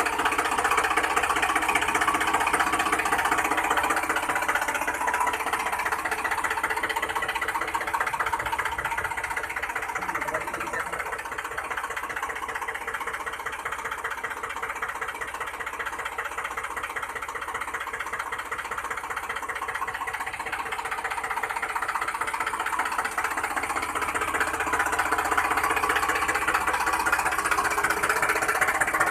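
Small motor of a DIY model tractor running continuously with a fast, fine rattle. It eases off a little in the middle and picks up again near the end.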